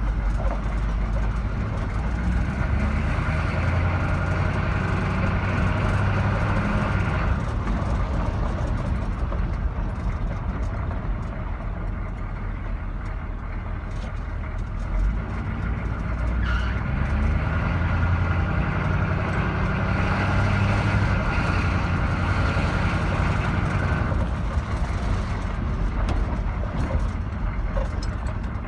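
K10 pickup's 6.2 V8 engine running on the move, pulling harder in two stretches, from about two to seven seconds in and again from about seventeen to twenty-four seconds, and easing off in between.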